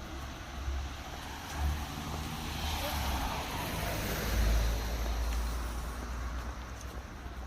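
A car driving past: engine rumble and tyre noise build to their loudest about four and a half seconds in, then fade away.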